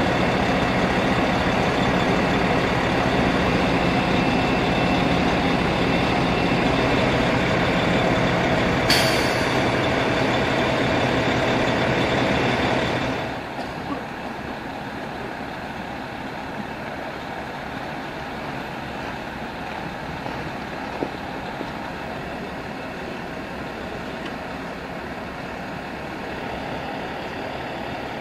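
Fire truck engine idling at the scene with a steady heavy hum. About nine seconds in there is one short sharp hiss. About thirteen seconds in, the hum drops to a noticeably quieter level and stays there.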